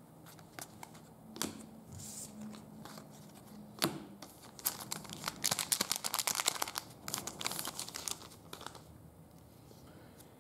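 A trading-card pack wrapper being torn open and crinkled: a couple of sharp clicks, then a dense run of crackling from about five to nine seconds in.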